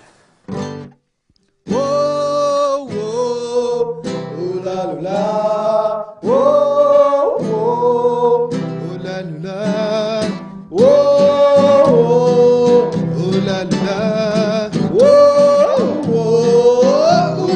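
A song starting up: strummed acoustic guitar chords under a held, sliding sung melody in phrases of a couple of seconds, beginning about two seconds in after a brief pause.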